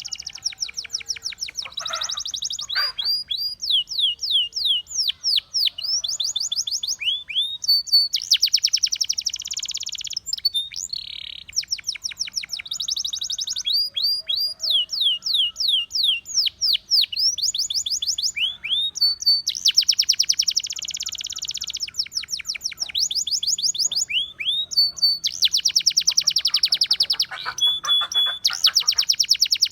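Russian singing canary (domestic canary) in continuous song. Runs of quick, repeated falling whistled notes alternate with denser rapid rolls, phrase after phrase with only brief pauses.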